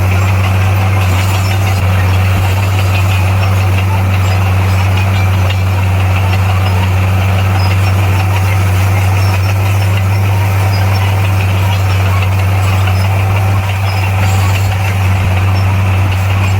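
Komatsu bulldozer's diesel engine running steadily with a deep, even hum and no change in speed.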